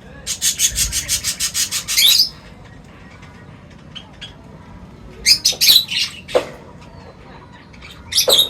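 Birds at a feeding spot: a rapid, even rattle of about eight strokes a second lasting about two seconds, then scattered short bird calls around the middle and again near the end.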